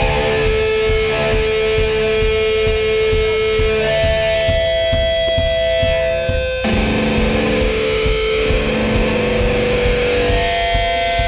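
Live hardcore punk band with distorted electric guitars holding long chords over drums, the chord changing about two-thirds of the way through.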